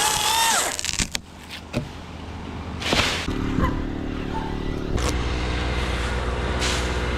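Two-stroke chainsaw at full throttle, released within the first second so its pitch drops off. A few knocks follow, then a brief crash about three seconds in as a cut piece of maple falls. After that an engine idles steadily to the end.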